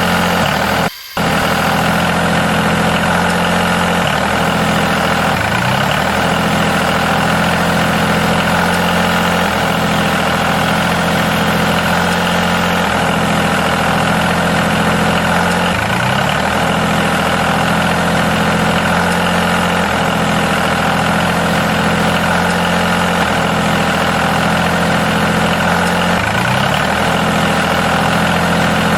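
Engine idling steadily, with a brief dropout about a second in.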